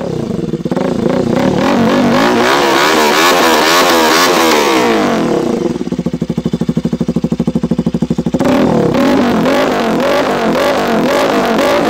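Bajaj Pulsar RS 200's single-cylinder engine revving repeatedly through an aftermarket SC Project slip-on exhaust. About six seconds in it drops to a steady, evenly pulsing idle for a couple of seconds, then revs again.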